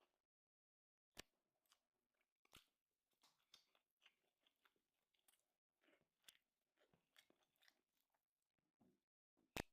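Faint eating sounds: soft chewing and small crunches, broken by a few sharp clicks, the loudest near the end.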